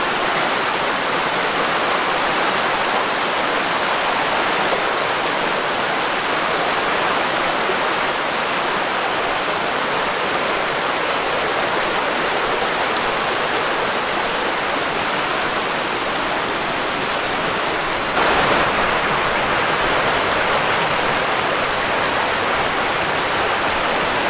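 A creek rushing over little rapids and waterfalls: a steady, loud wash of running water that gets slightly louder about three quarters of the way through.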